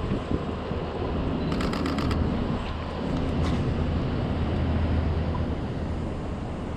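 Steady low rumble of city street traffic, with some wind. About a second and a half in, a camera shutter fires a rapid burst of about eight clicks, and a few more clicks follow about three seconds in.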